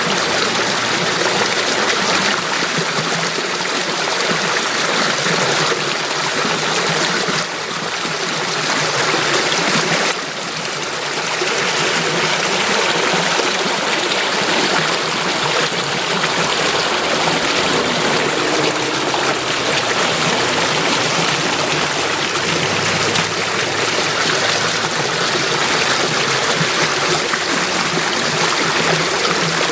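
Flowing water rushing steadily, as of a stream, with the level dipping briefly twice about a third of the way through.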